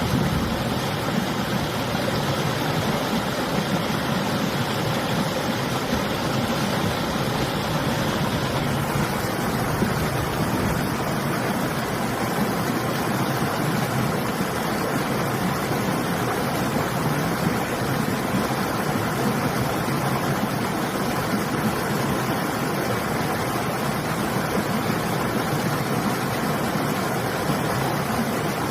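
River water flowing in a steady rush, with winter wind; the higher hiss eases somewhat about nine seconds in.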